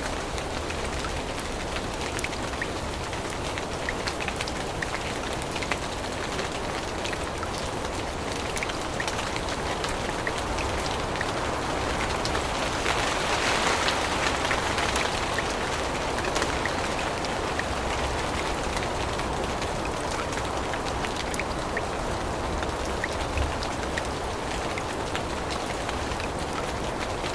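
Steady rain falling in a forest, with many small drops ticking on leaves and surfaces; the rain grows louder for a few seconds around the middle, then settles back.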